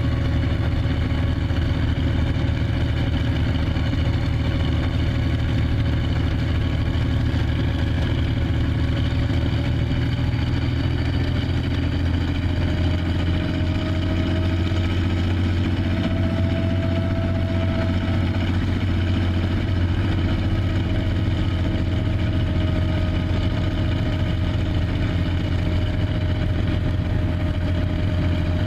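Tank engine idling steadily. Its pitch lifts slightly about halfway through, then settles back.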